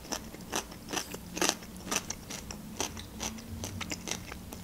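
Close-up chewing of a mouthful of fresh cucumber: crisp, wet crunches about twice a second, growing fewer and fainter after about three seconds.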